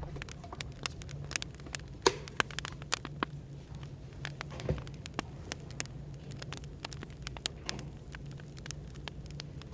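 Wood fire crackling, with irregular pops and snaps, a sharper pop about two seconds in. Under it runs a steady low hum of background noise.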